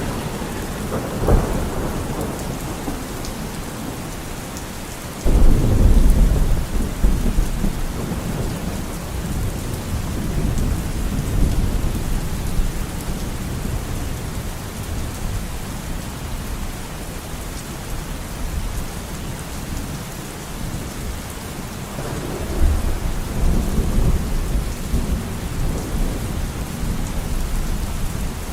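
Steady rain with thunder: a short clap about a second in, a sudden loud rumble about five seconds in that rolls on for several seconds, and another rumble near the end.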